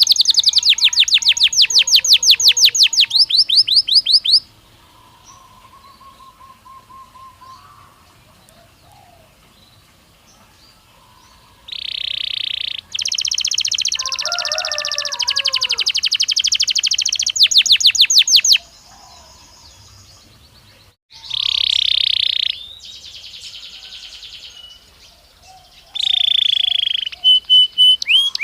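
Belgian canary singing in fast trills of rapidly repeated high notes, in phrases of a few seconds with softer passages between them. The loudest trills come at the start and again near the end.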